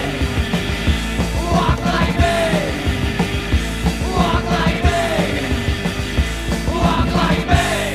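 Punk rock song with sung vocals, drums and electric guitars; near the end the band stops on a final chord that rings on and fades.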